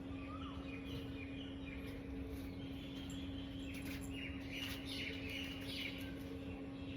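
Birds chirping in short, high calls, thickest through the middle, over a steady low hum.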